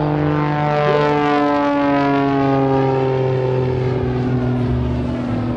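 Single-engine propeller aerobatic airplane's piston engine running at high power, its stack of engine tones sliding slowly down in pitch as it flies past.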